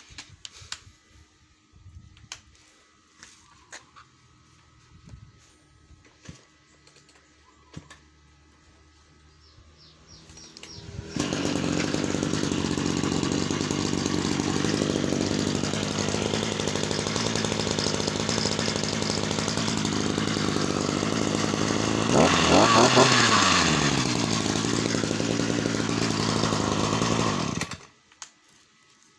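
Ryobi 2370 brush cutter's small petrol engine. After a few light clicks and taps of handling, it starts about ten seconds in and runs steadily. About two-thirds through it revs up briefly and back down, then stops suddenly near the end.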